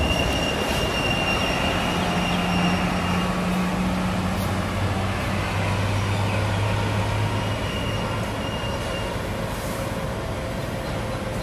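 Electric MRT train at an elevated station, heard over a steady rumble of running noise. A thin high wheel squeal comes and goes, and a low motor hum drops in pitch around the middle.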